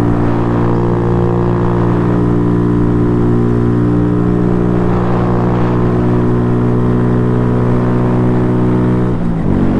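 Honda Grom's small single-cylinder engine running at a steady pitch while riding. Near the end the pitch briefly dips, then carries on.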